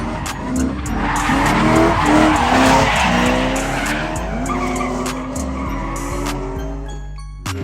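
Drift car engine revving up and down as the tyres squeal and skid through a slide, loudest from about one to four seconds in, over background music.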